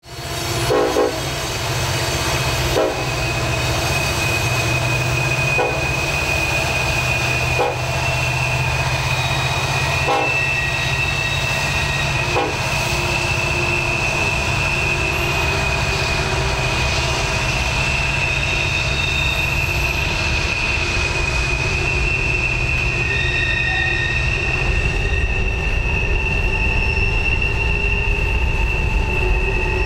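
A Norfolk Southern diesel-hauled freight train of coal hoppers rolling through a tight curve: a deep rumble under a steady high-pitched squeal of wheel flanges on the rail, with a few sharp clacks in the first dozen seconds.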